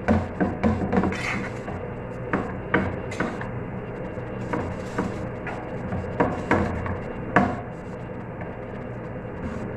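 Kitchen handling sounds: irregular knocks and clinks of dishes and utensils, about a dozen, over a steady low hum.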